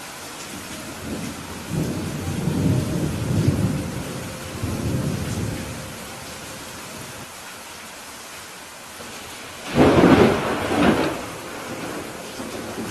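Steady rain with thunder: a low rolling rumble from about two to five seconds in, then a sudden, louder thunderclap about ten seconds in that rolls on for another second or so.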